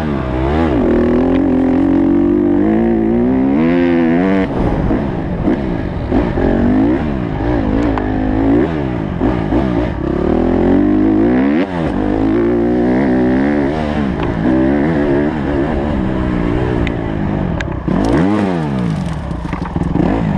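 Honda CRF150's single-cylinder four-stroke engine revving up and down over and over under hard throttle, rising and falling in pitch with each burst of speed, with two deeper drops in revs, one about midway and one near the end.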